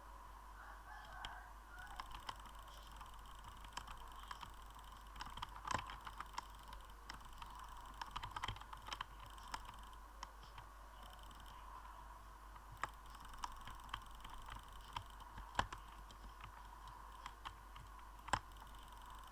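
Typing on a computer keyboard: irregular key clicks, some louder than others, over a faint steady hum.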